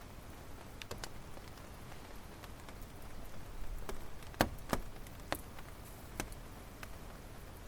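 Firewood burning in a campfire, crackling with scattered sharp pops over a soft low rush; the fire swells and pops several times in quick succession about four to five seconds in.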